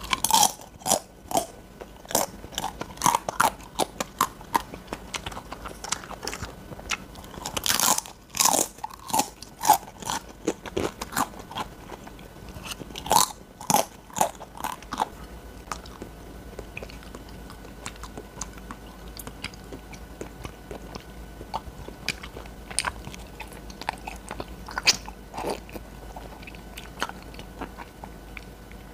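Close crunching and chewing of crispy fried dried-pollock crisps (hwangtae bugak), with sharp crunchy bites. The bites come thickly at first and thin out to quieter, sparser chewing after about fifteen seconds.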